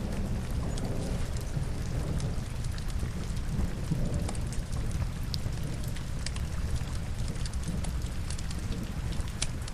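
Steady rain with a deep low rumble, mixed with scattered sharp crackles from burning logs in a fireplace.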